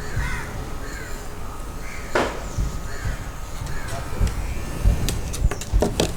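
Repeated short, falling animal calls, with a few sharp clicks and low knocks near the end.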